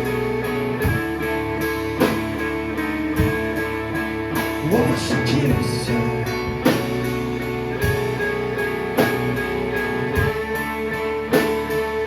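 Live band playing a slow song: sustained, ringing guitar chords over a drum kit, with a drum hit about once a second.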